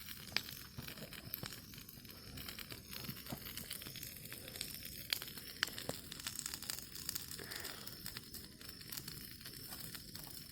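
Bonfire crackling, with scattered sharp pops as the pile catches.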